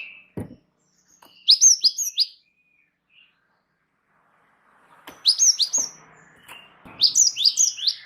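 Cinereous tit (gelatik wingko) singing in an energetic, continuous style, three bursts of quick, high, sweeping whistled notes a few seconds apart. A brief low thump comes just after the start.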